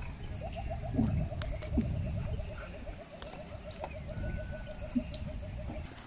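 A bird calling a long, rapid series of even hoots, about eight a second at one steady pitch, stopping near the end, over a steady high drone of crickets or other insects.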